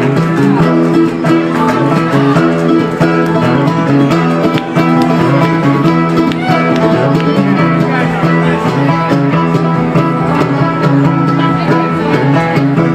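Live acoustic bluegrass band playing an instrumental passage of the song, with picked guitar and other plucked strings over a steady bass line.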